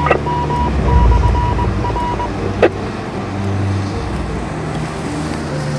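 Car on the move: steady low road and engine rumble. A short broken run of high beeps sounds over it during the first two seconds, and there is one sharp click about two and a half seconds in.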